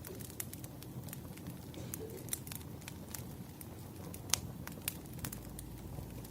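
Wood fire crackling, with irregular sharp pops over a low, steady rumble. The loudest pop comes a little past the middle.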